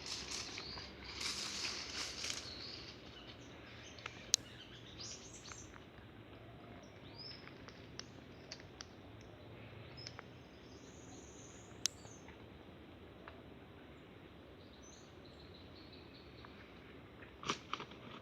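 Quiet forest ambience with faint bird chirps. Rustling comes in short spells near the start and again near the end, with a couple of sharp clicks in between.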